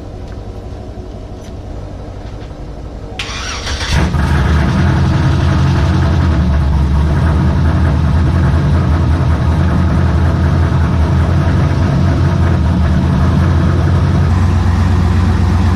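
A vehicle engine starts about four seconds in and then runs steadily.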